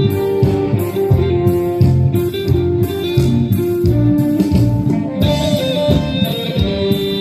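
Band music with no singing: guitar playing over a steady drum beat, with a higher melody line coming in about five seconds in.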